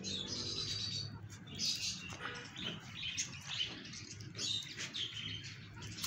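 Birds chirping and twittering: many short, high-pitched calls scattered through the whole stretch.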